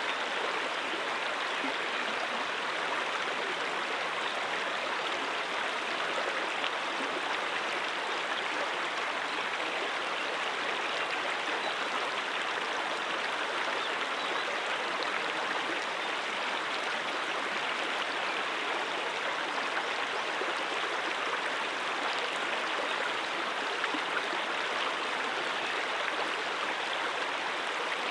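Stream water running over rocks, a steady rushing and splashing flow.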